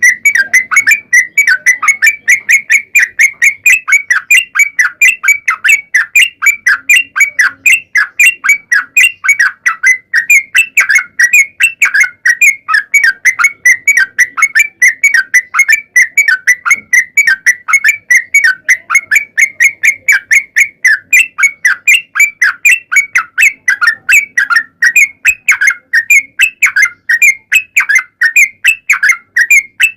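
Yellow-vented bulbul (trucuk) song: a long unbroken run of short whistled notes repeated rapidly, several a second.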